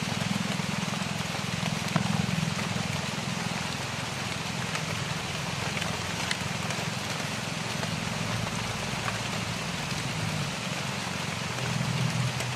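Steady rain falling on dense foliage, an even hiss, with a low steady hum underneath.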